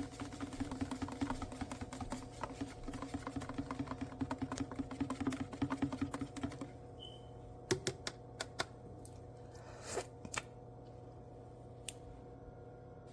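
Single-serve coffee maker brewing: a steady buzzing hum with rapid crackling sputter, which cuts off about seven seconds in. A short high beep follows, then a few scattered clicks.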